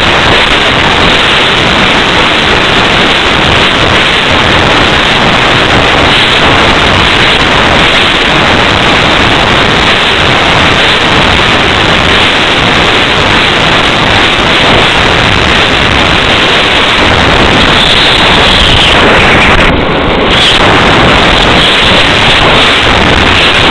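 Loud, steady rush of wind buffeting the microphone of a small camera mounted on a gliding radio-controlled slope soarer in flight. There is a brief dip about 20 seconds in.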